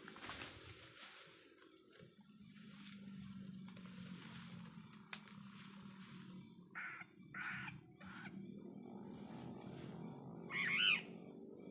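Black-naped oriole giving harsh, nasal, crow-like calls: three short rasping calls about seven seconds in, then a louder, bending call near the end.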